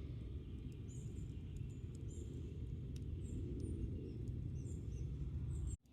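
A small bird giving faint, short, high chirps several times over a steady low outdoor rumble. The sound cuts off suddenly near the end.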